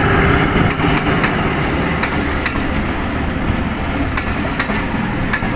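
Passenger train passing close by: the ZCU-20 diesel-electric locomotive's engine running as it goes past, then the coaches rolling by, with a steady loud rumble and irregular sharp clicks of wheels on the rails. It is a little louder in the first second.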